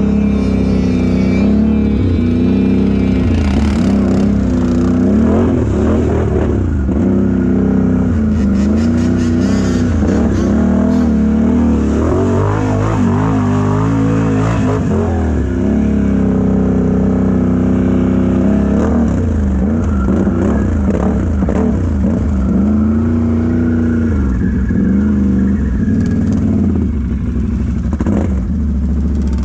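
Mega truck's engine revving hard and repeatedly as it is driven through deep mud, its pitch climbing and dropping every few seconds.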